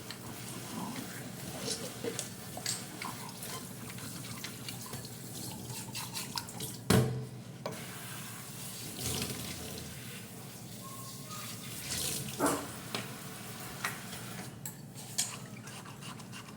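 Water running steadily, with scattered clinks and knocks, the loudest about seven seconds in.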